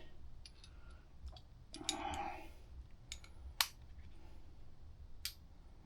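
Scattered sharp metallic clicks from a socket wrench tightening exhaust bolts by feel, with a brief rasping scrape about two seconds in.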